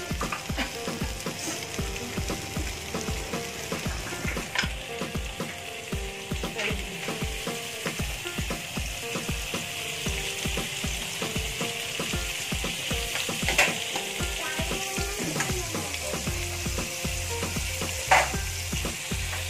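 Paneer cubes shallow-frying in hot oil in a nonstick pan: a steady sizzle with a few louder crackles of spitting oil.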